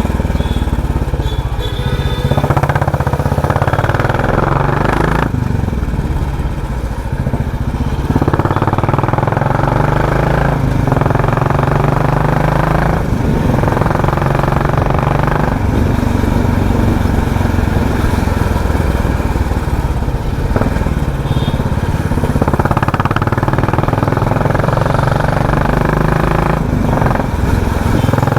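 Royal Enfield Classic 350's single-cylinder engine running through a loud aftermarket "helicopter" exhaust while riding, the exhaust note swelling several times as it pulls.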